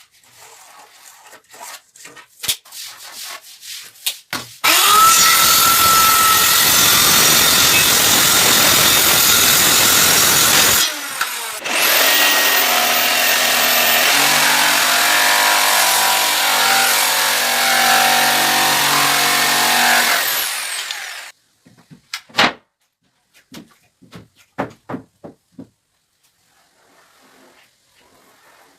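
A power tool working wood, likely pallet wood, in two loud runs of about six and nine seconds. Each run starts with a rising whine as the motor spins up. Scattered knocks and taps of wood being handled come before and after the runs.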